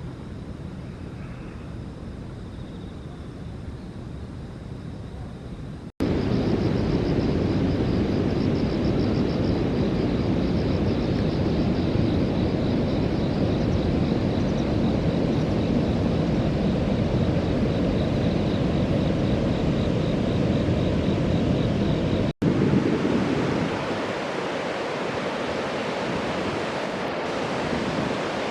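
Outdoor riverside ambience: a steady rushing noise, much louder in the middle section, which starts and stops abruptly with edits about 6 seconds in and about 22 seconds in. A faint high pulsing trill and a thin steady high tone sit over the loud part.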